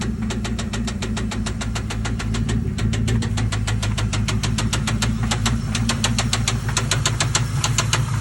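2000 Lincoln Town Car's swapped-in V8 idling with a rapid, even ticking, which the owner puts down to the timing chain tensioner arm and guide, probably a blown-out tensioner.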